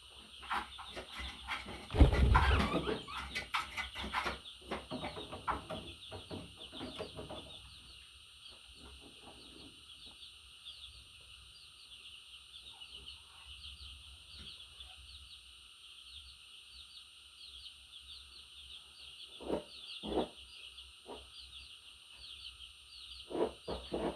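Budgerigar chattering in a steady stream of quick high chirps. About two seconds in comes a loud burst of knocking and rustling, and a few sharper knocks follow near the end.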